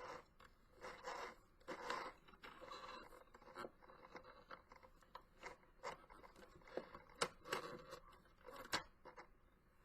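Faint handling noises: short scrapes and a few sharp clicks of a small plastic mini sewing machine being poked and handled at its presser foot.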